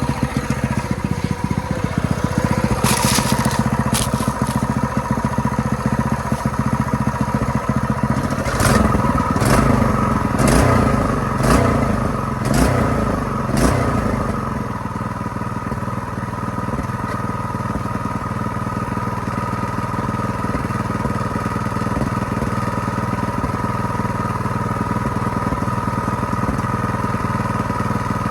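Ironton 208cc single-cylinder four-stroke engine running. Its speed rises and falls unevenly between about 8 and 14 seconds, with several sharp cracks, then it settles to a steadier run.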